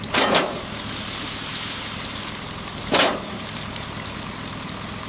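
A winch pulling a car onto a recovery vehicle: a steady low hum under a noisy hiss, with two brief, loud swishes, one at the start and one about three seconds in.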